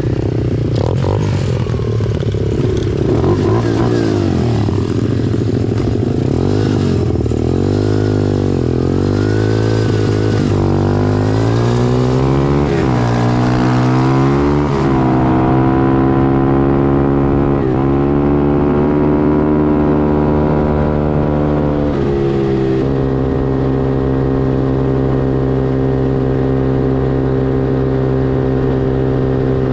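Pit bike engine revving up and down several times, then running at a steady speed for the second half, with a slight drop in pitch a little before the end.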